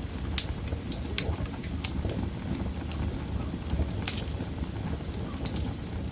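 Wood fire burning in a fireplace: irregular sharp crackles and pops over a steady low rumble of flames, the loudest pop about half a second in.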